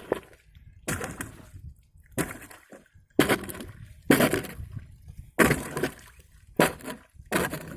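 Ice being broken with repeated blows, about seven hits roughly a second apart, each followed by a short crackle and slosh of water.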